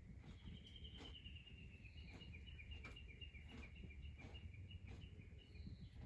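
A small bird singing one long, fast trill of quick repeated chirps that slowly falls in pitch, faint against a quiet rural background with a few soft scattered clicks.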